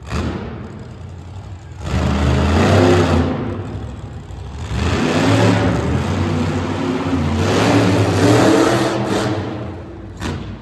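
Monster truck engine revving hard, rising and falling in several long surges of a second or two each, then dropping off near the end.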